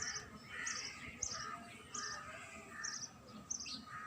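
Birds chirping: one bird repeats a short high chirp about every half second to second, with other birds calling more softly underneath.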